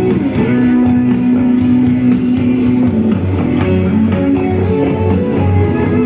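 Live rock band playing, with guitars over bass and drums. A long held note runs from about half a second in to about three seconds in, over a steady low beat.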